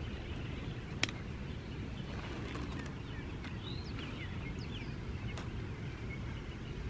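Faint birds chirping now and then over a steady low outdoor rumble, with a single sharp click about a second in.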